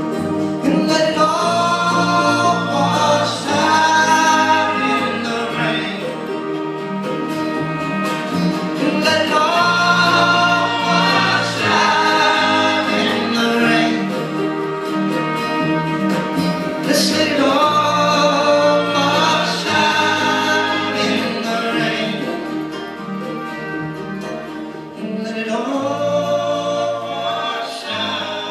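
Live band music with voices singing together in long phrases that return about every eight seconds.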